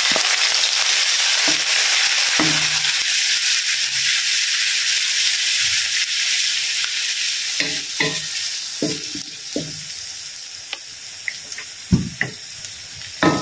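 Chopped shallots sizzling in hot oil in a wok, stirred with a wooden spatula that knocks and scrapes against the pan now and then. The sizzle is loudest at first and dies down toward the end.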